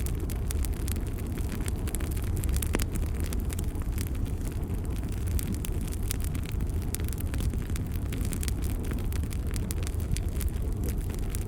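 Bonfire burning: a steady low rumble of flames with many quick, irregular crackles and pops of burning wood.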